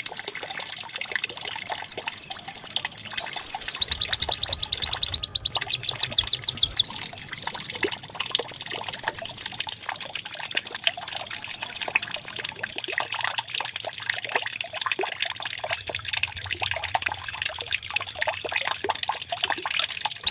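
A white-eye (pleci) singing loud, rapid canary-like trills of fast repeated high, sweeping notes, with a short break about three seconds in. From about twelve seconds in the song drops away to a quieter stretch of faint scattered chirps over a low hiss.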